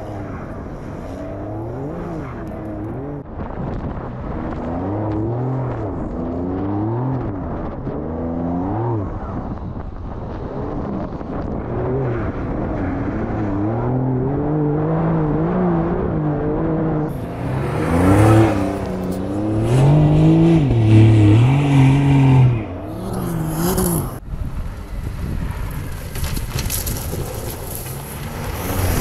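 Porsche 911 Dakar's 3.0-litre twin-turbo flat-six revving up and down over and over as the car is driven through soft sand. About two-thirds in, a loud hissing rush joins the engine, and near the end the rising and falling engine note gives way to a steadier rush of noise.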